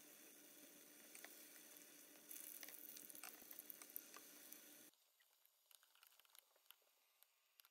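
Tofu slabs deep-frying in hot oil in a pot: a steady sizzle with crackles that gets louder about two seconds in. About five seconds in it drops to a faint sizzle with scattered pops.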